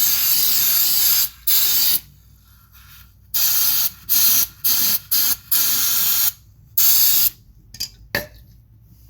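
Aerosol can of carburetor cleaner spraying in hissing blasts onto a hydraulic filter screen to clean it. First comes one long blast of about two seconds, then a run of shorter spurts from about three seconds in, the longest near six seconds in.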